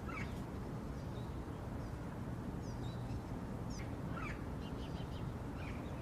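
A few short, scattered parrot calls, faint and sliding downward, over a steady low background rumble.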